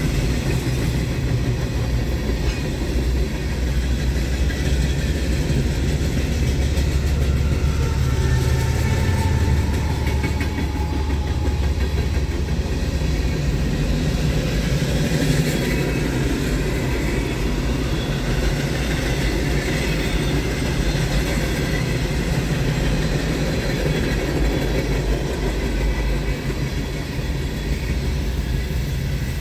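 Freight train going by: a diesel locomotive's engine running low and steady, with the railcars rumbling on the rails, the deep rumble strongest in the first third.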